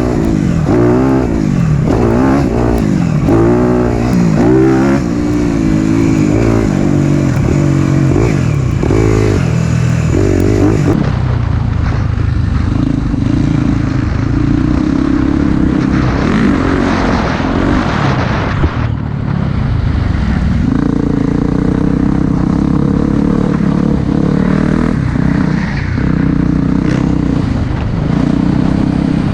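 Four-stroke single-cylinder dirt bike engine under riding load. The throttle goes on and off over and over for about the first ten seconds, the pitch climbing and falling each time, then it holds a steadier pitch with a brief dip about two-thirds of the way through.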